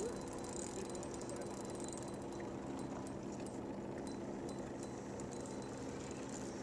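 Steady hum of a boat motor running, even and unchanging.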